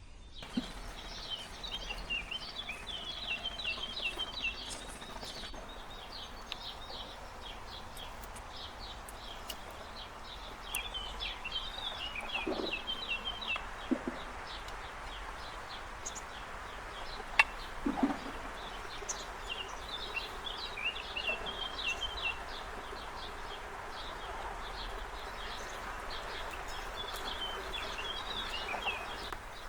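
Small birds chirping in rapid clusters of high notes, several times over, against a steady background rush. A few soft knocks come in the middle.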